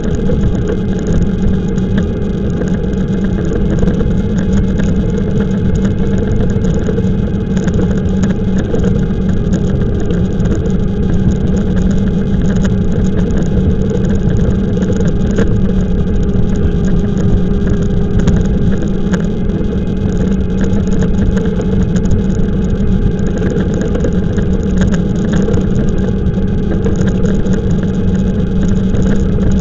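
Continuous wind rush and rolling noise from an e-bike ride picked up by a camera mounted on the rider or bike, with a steady low hum underneath.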